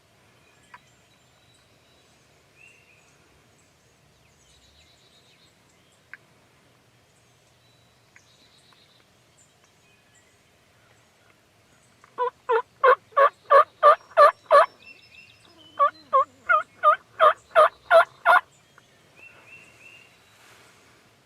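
Bird calling in two quick series of loud repeated notes, about nine notes each at roughly four a second. Each note rises and falls in pitch. Faint high chirps sound around it.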